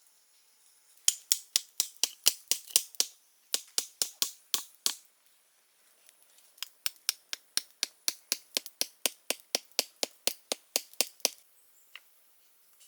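Rapid sharp taps in three runs, about five a second, with short pauses between the runs.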